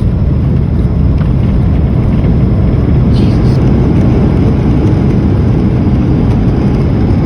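Loud, steady low rumble inside the cabin of a Boeing 737 during landing: the engines and the airframe's roll and airflow noise, with no distinct bangs or changes.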